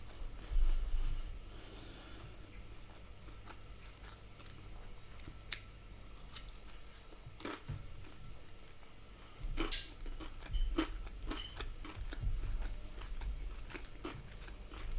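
Close-miked chewing and crunching of takeaway food, with scattered wet clicks and crunches at irregular intervals and a louder burst near the start.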